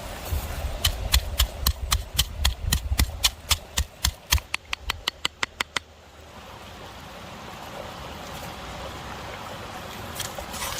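A knife chopping on a wooden cutting board in quick, even strokes, about four a second, stopping about six seconds in; after that a flowing stream is heard steadily.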